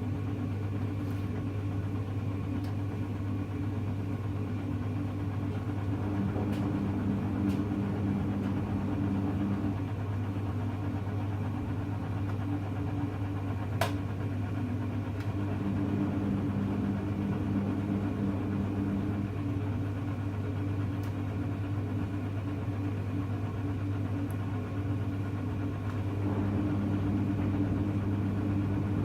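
Hoover Electra front-loading washing machine running its wash, a steady low hum with the drum motor starting and stopping in spells of a few seconds between pauses. A single sharp click about halfway through.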